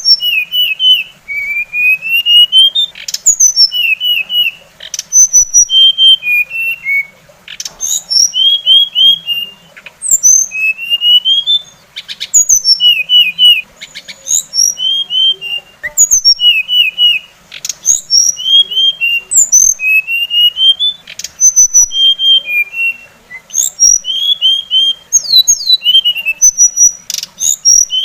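Songbird song played as a masteran recording: short phrases of quick chirps and sliding high whistled notes, repeated over and over in bursts of a second or two with short gaps.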